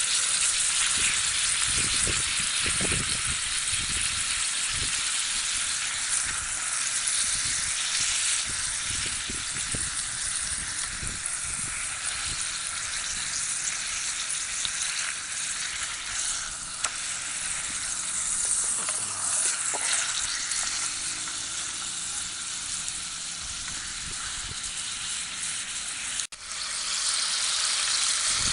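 Food frying in a pan: a steady sizzle, with a few soft knocks in the first few seconds. The sound cuts out for an instant near the end and then carries on.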